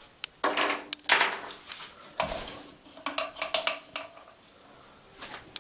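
Light clicks and clatter of small hard objects, several sharp taps and a few short rattling stretches, as a parrot handles its trick toys on a hard surface.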